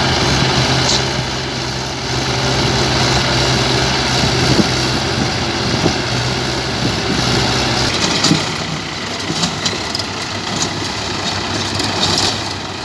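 Tractor engine running at a steady idle, a low hum that drops away about eight seconds in, with scattered knocks.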